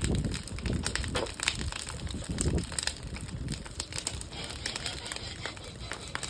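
Bonfire of wooden pallets crackling, with frequent irregular sharp pops and snaps, and a low rumble through the first couple of seconds.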